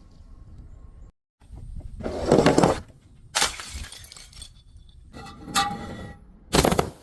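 Glass bottles breaking and crunching in four separate crashes, one longer crunch then three short sharp ones, with glass ringing around the third.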